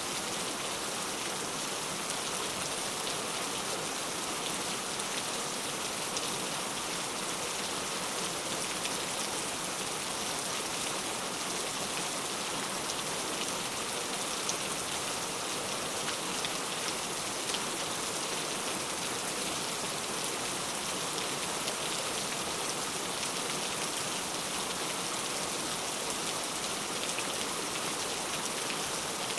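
Steady rain falling, with many fine individual drops pattering on a surface over an even hiss.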